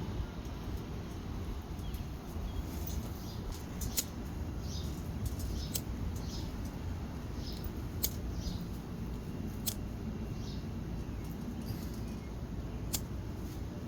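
Outdoor ambience: a steady low rumble with about five sharp clicks scattered through it and several faint, short, high chirps.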